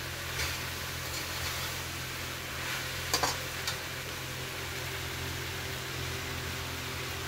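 Cubed potatoes sautéing in oil in a kadai, sizzling steadily, as a metal spatula stirs them, scraping and tapping against the pan a few times, mostly about three seconds in.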